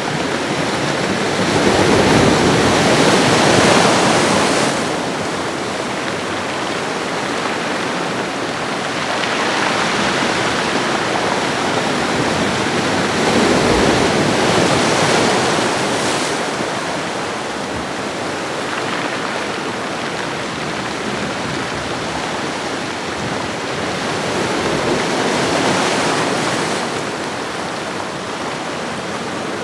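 Ocean waves washing onto a shore in a continuous hiss. It swells three times, about every eleven seconds, as waves break and ebb.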